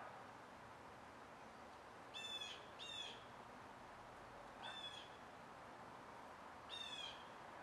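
A bird gives four short calls, each a fraction of a second long, over a faint steady hiss. Two come in quick succession about two seconds in, one follows about two seconds later, and the last comes near the end.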